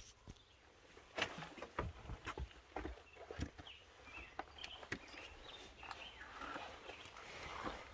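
A hiker's footsteps and scuffs on a fallen log and rock, as irregular soft knocks and scrapes.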